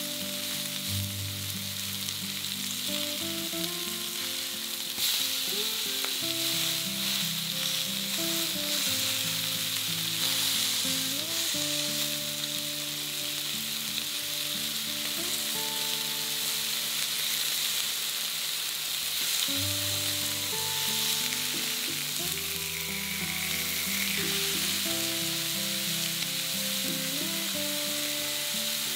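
Pork-mince patties and tomato slices sizzling steadily in olive oil in a frying pan, the patties browning on their second side. Soft background music of slow held notes plays underneath.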